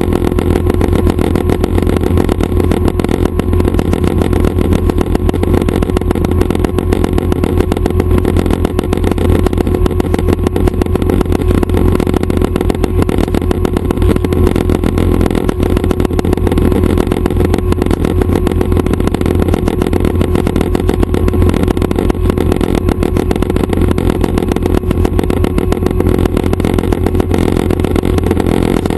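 Schweizer 269 light helicopter running steadily, its piston engine and rotors making a loud, unbroken drone.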